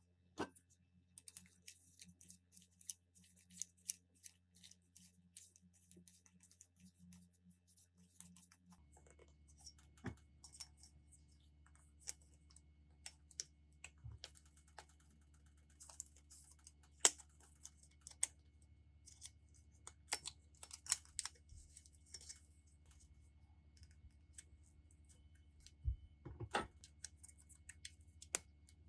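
Scattered light clicks and taps of small tool parts being handled and worked on by hand, over a faint steady hum. A few sharper taps stand out, in the middle and near the end.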